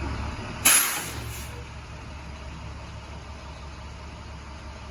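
Box truck engine idling with a steady low hum. A little under a second in, a sudden loud burst of noise cuts in and dies away within a second.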